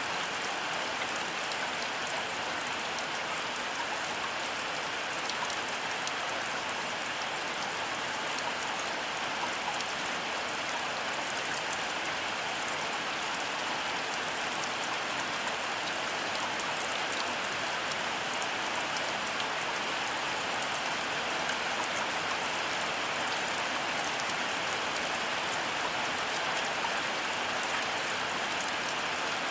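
Heavy rain falling steadily: a dense, even hiss with fine pattering of individual drops, and no thunder.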